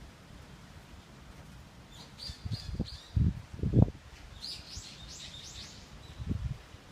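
Small birds chirping: a few quick high notes about two seconds in, then a faster run of chirps near the middle. Wind gusts buffet the microphone with low rumbling bumps, the loudest around the middle and again near the end.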